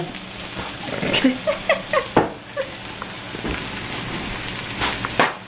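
Diced onions and red peppers sizzling in olive oil in a cast iron skillet. About a second in there are a few short rising high-pitched sounds, and there are sharp knocks about two seconds in and again near the end.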